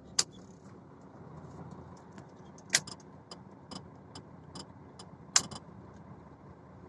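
Inside a truck cab: the engine hums low and steady, with a few sharp clicks just after the start, near three seconds and past five seconds, and fainter ticks in between.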